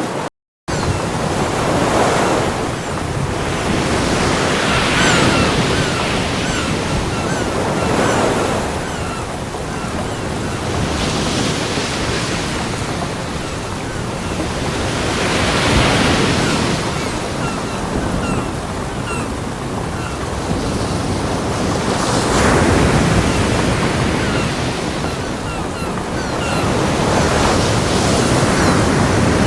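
Ocean surf breaking on a beach: waves swell and wash in one after another every few seconds over a steady hiss. The sound cuts out for a moment about half a second in.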